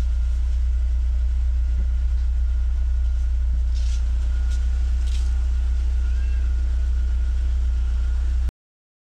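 BMW E36 engine idling steadily at about 1000 rpm, heard from inside the cabin as a low rumble that cuts off suddenly near the end.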